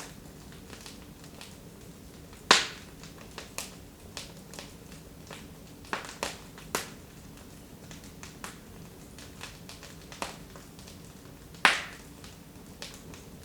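Wood fire in a fireplace, burning low, crackling: scattered sharp pops over a faint steady hiss, the two loudest about two and a half seconds in and near the end, with a quick run of smaller pops around the middle.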